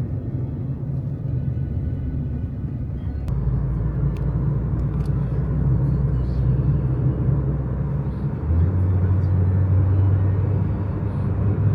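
Low steady rumble of a car on the move, engine and road noise, shifting abruptly about three seconds in and again past eight seconds, when a steadier low hum comes in.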